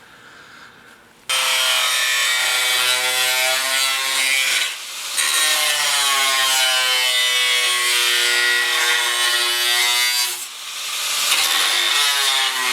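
Power tool cutting a patch out of 18-gauge sheet steel: a loud, steady screeching cut that starts about a second in, with a wavering pitch, easing off briefly twice.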